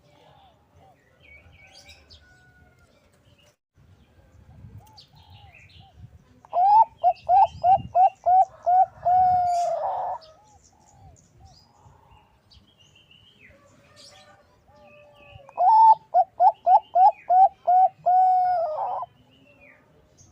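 Zebra dove (perkutut bangkok) cooing twice, each call a quick run of about seven short rising coos ending in one longer held note that drops away.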